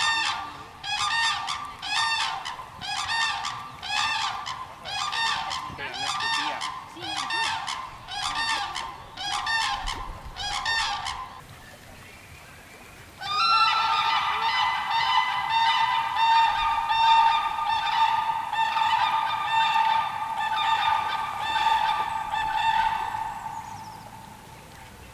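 Birds calling from the pond, first one bird giving a long run of loud, harsh calls about once a second. After a short pause, many birds call together in a dense, overlapping chorus.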